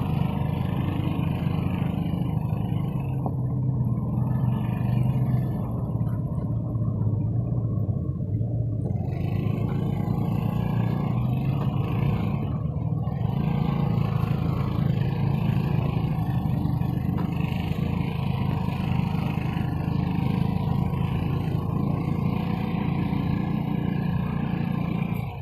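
Six-wheel dump truck's diesel engine running steadily under way, with a continuous low rumble.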